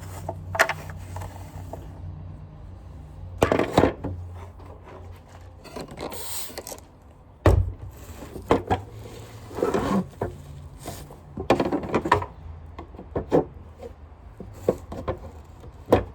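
Sanitaire vacuum cleaner parts being handled and fitted back together: scattered knocks, clicks and rubbing, with a heavier thump about halfway, over a low hum that stops about then.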